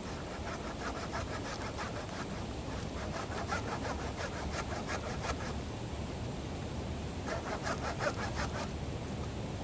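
Rhythmic rasping strokes, several a second, in three bursts of one to two seconds each, over a steady low background noise.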